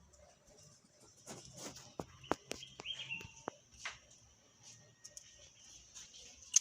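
A handful of sharp clicks and taps, the loudest about two seconds in, with a faint bird chirp in between.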